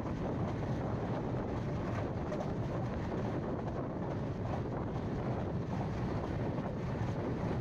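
Express passenger train running at steady speed: a constant rumble of the moving coach, with wind buffeting the microphone.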